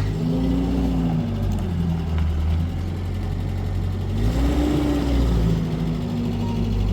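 A vehicle engine running with a steady low rumble, its pitch rising and easing off twice as it picks up speed.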